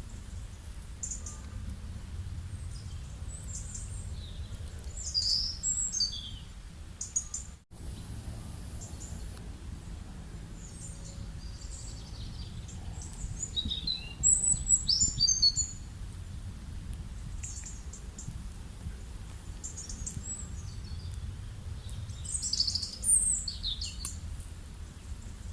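Several birds chirping and calling over a steady low rumble, with the busiest bursts of calls about five seconds in, around halfway, and near the end. The sound cuts out for an instant a little before eight seconds.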